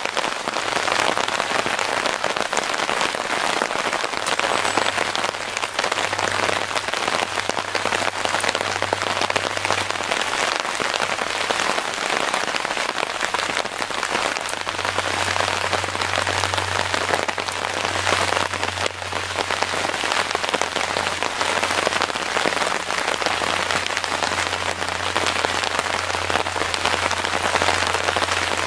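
Steady rain falling, an even dense hiss of drops with no break, and a low hum that comes and goes underneath.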